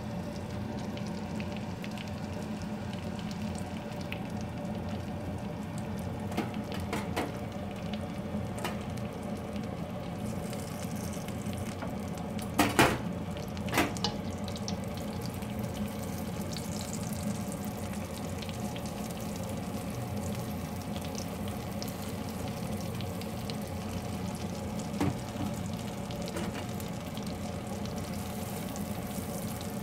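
Egg-coated eggplants (tortang talong) frying in shallow oil in a pan, a steady sizzle over a low hum. Scattered light pops or clicks run through it, with two louder sharp clicks close together near the middle.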